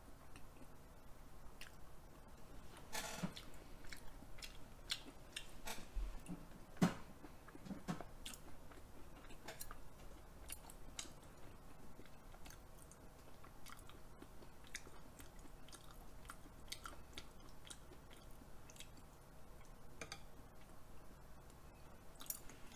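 Close-up chewing and mouth sounds of someone eating raw beef yukhoe, soft and wet, with scattered small clicks throughout and a couple of louder ones about 3 and 7 seconds in.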